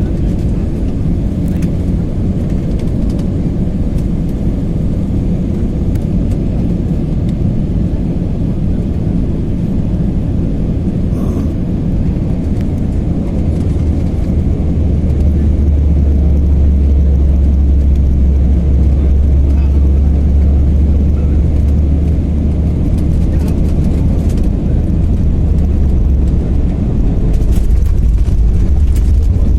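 Airliner cabin noise during the landing approach: a steady, loud engine and airflow rumble that grows deeper and louder about halfway through.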